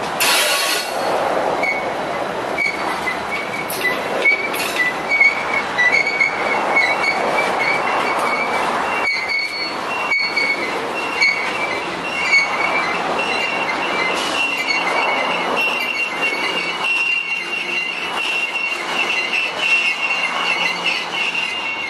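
Norfolk Southern freight cars rolling past, their steel wheels squealing against the rail in high, steady tones over a continuous rumble, with scattered clicks.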